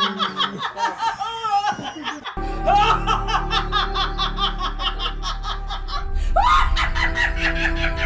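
A person laughing in short bursts, cut off abruptly about two seconds in by background music with a steady beat and a held bass line.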